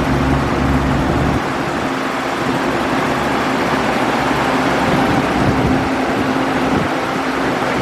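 A train running through the station: a steady, loud rumble with a low hum, the low rumble easing about a second and a half in.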